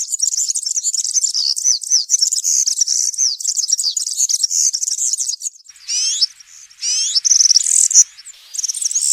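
European serin singing its wild-type (campero) song: a fast, high-pitched jingling run of quick sweeping notes. It breaks off briefly a few times in the second half, with a couple of short rising trills in between.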